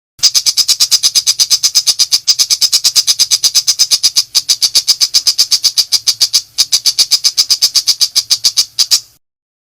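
Pentet macan shrike calling in a rapid-fire 'nembak' burst: a fast, even chatter of sharp high notes, about eight a second, broken three times by brief pauses and stopping abruptly near the end.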